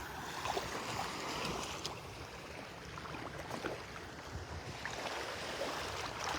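Small Gulf waves washing and lapping in shallow water at the beach's edge: a steady, soft wash of water noise.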